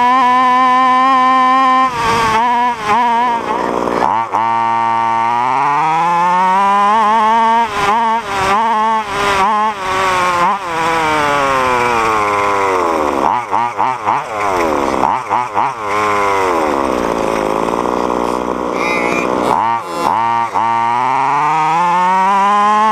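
Small two-stroke petrol engine of a large-scale gas-powered RC car running hard, its pitch sweeping up and down as the throttle is worked, with several quick throttle blips and drops along the way.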